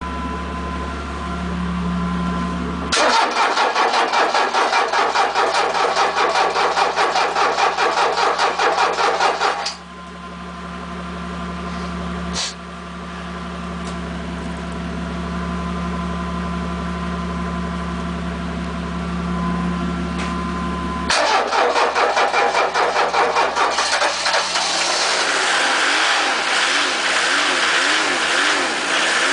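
Cold start of a 1991 Opel Kadett's 1.7-litre diesel after eight months standing. The starter cranks the engine in rhythmic pulses for several seconds without it catching, then stops. A second crank about twenty seconds in fires the engine, which settles into a rough, wavering idle.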